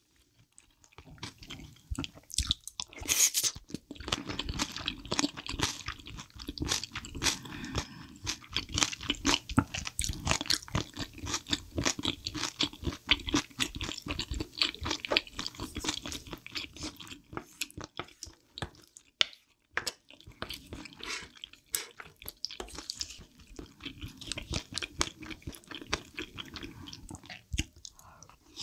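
Close-miked chewing and crunching of spicy chicken feet and glass noodles, a dense run of wet mouth clicks and crunches with a brief pause about two-thirds through.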